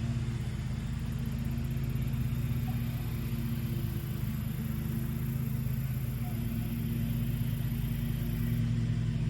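A motor's steady low hum, even throughout, with no clear rise or fall.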